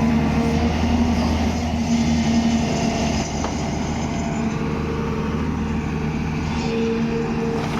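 Hydraulic excavator's diesel engine running steadily, a continuous engine hum whose note shifts slightly about three seconds in.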